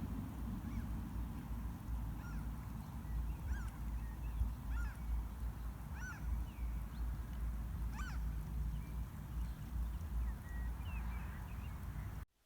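Birds calling in short, repeated honk-like notes, roughly one a second, over a steady low rumble. The sound cuts off abruptly near the end.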